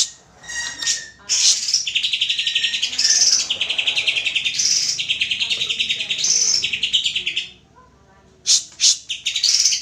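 Cucak hijau (green leafbird) singing: fast, buzzy rattling trills with higher whistled notes laid over them. The song stops for under a second near the end, then a few sharp, loud notes start it up again.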